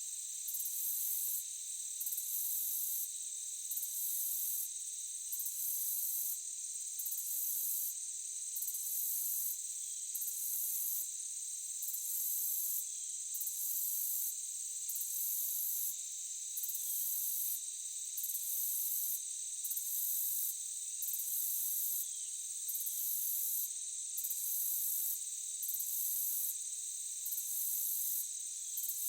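A chorus of insects, crickets or cicadas, trilling steadily at a high pitch. The highest part of the chorus breaks off briefly in a regular pulse about every second and a half. Faint short chirps come at a similar spacing.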